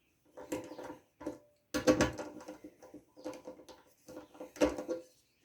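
Hands handling small engine parts: a series of short knocks, clinks and rattles in irregular clusters, loudest about two seconds in and again near the end.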